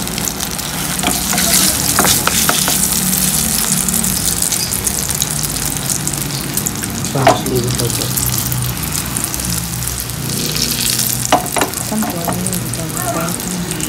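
Egg-coated eggplant omelette (tortang talong) sizzling steadily in hot oil in a frying pan, with a few sharp clicks and scrapes of a spatula against the pan; the loudest click comes about halfway through.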